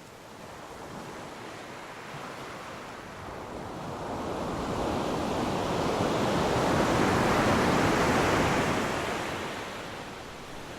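Sea waves breaking on a beach: one wave's rush builds slowly over several seconds, is loudest a little past the middle, then washes back and fades.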